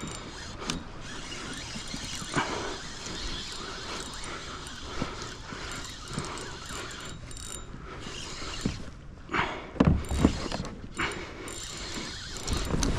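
Daiwa BG 3000 spinning reel working as a hooked redfish pulls on the braided line: a steady mechanical whirring and ticking from the reel. A few heavy knocks sound around nine to ten seconds in.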